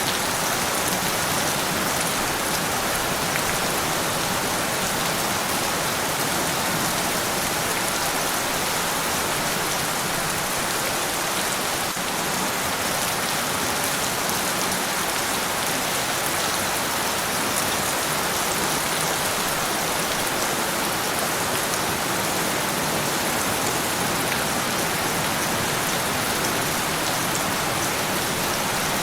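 Steady rain falling on a surface, an even hiss of drops with no breaks or thunder.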